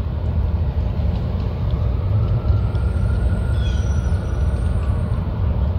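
Street traffic: a steady low rumble of passing vehicles, with a faint whine that rises slightly through the middle.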